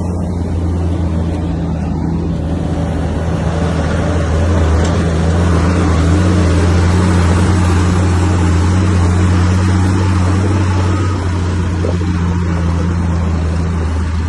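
Heavy diesel earthmoving machine's engine running steadily under load, with a broad mechanical noise that swells in the middle and eases off near the end.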